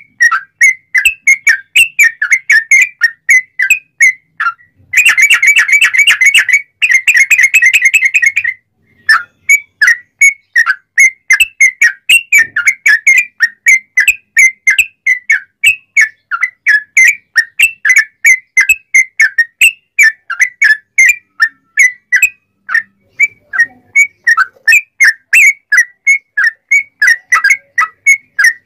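Yellow-vented bulbul (trucukan) singing a long, loud run of short, clear whistled notes. About five seconds in it breaks into two rapid trills of about a second and a half each, then goes back to separate notes.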